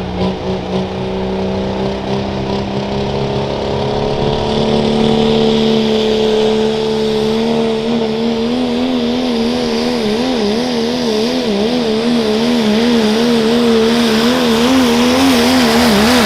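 Diesel pickup truck engine held at high revs under heavy load during a sled pull, getting gradually louder. Its pitch climbs slowly, then wavers rapidly up and down from about halfway through.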